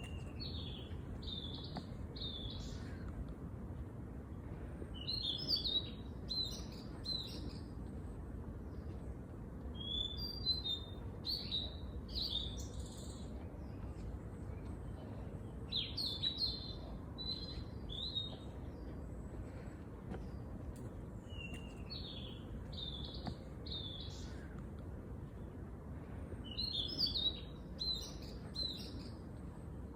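A songbird singing short phrases of quick high chirps, one phrase every five seconds or so, over a steady low background rumble.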